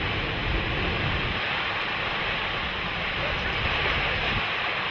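Steady rushing roar of strong tornado winds, with gusts buffeting the microphone.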